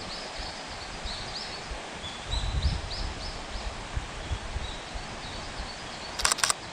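A small songbird singing phrases of short, high, arching notes repeated in quick groups. Near the end comes a fast run of three or four sharp clicks.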